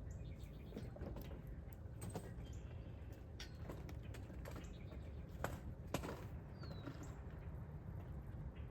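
Outdoor backyard ambience: a few short bird chirps and scattered sharp clicks over a steady low background rumble.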